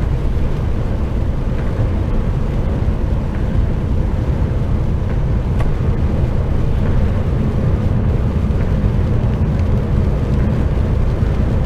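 Steady low drone of an HGV truck's diesel engine cruising, with tyre and road noise, heard inside the cab.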